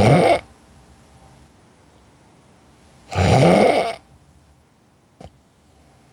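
A person snoring while asleep: one snore just at the start and another about three seconds in, each lasting under a second, with a short click about five seconds in.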